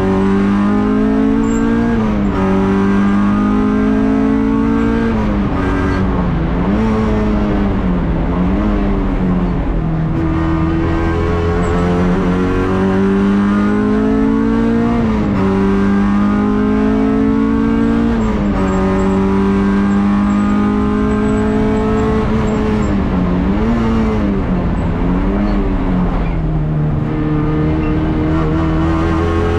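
Honda Civic 1600 race car's four-cylinder engine heard from inside the stripped cabin, running hard at high revs, its pitch dipping and climbing back several times as the driver lifts off and changes gear.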